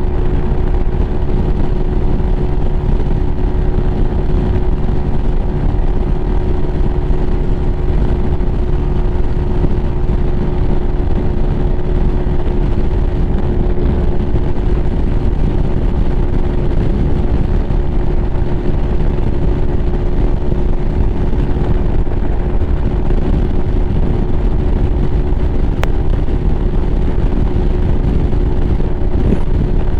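Lifan KPM 200's single-cylinder engine running at a steady highway cruise, its tone holding level under heavy low wind rumble on the rider's microphone.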